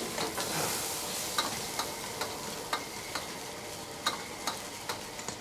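Noodles with beef frying in a pan, sizzling steadily while a utensil stirs them and taps against the pan in sharp clicks about twice a second. The sizzle is loudest in the first second or so.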